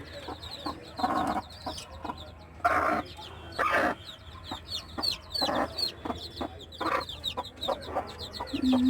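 Chickens clucking in a handful of short calls, over many chicks peeping in quick, high, falling cheeps.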